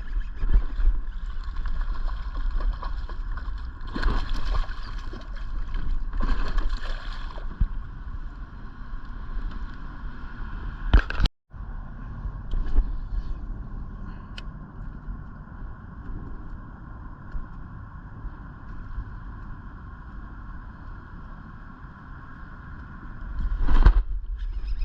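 Water sloshing and splashing around a small fishing boat, with low wind rumble on the microphone and a few louder splashes. The sound cuts out for a moment about eleven seconds in, then goes on quieter and steadier before getting louder again near the end.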